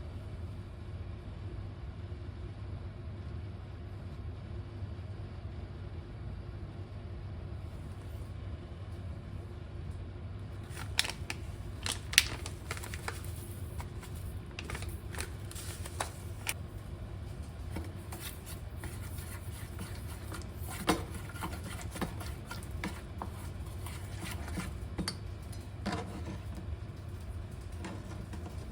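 Steady low hum of a kitchen range-hood fan. After about ten seconds, scattered sharp clicks and light knocks of things being handled join it.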